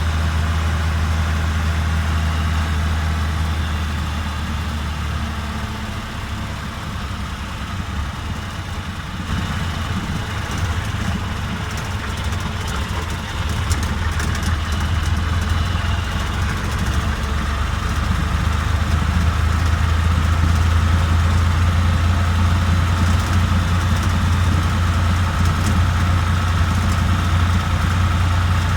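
Tractor engine running steadily with a deep low hum, easing off a little before the middle and swelling again through the second half.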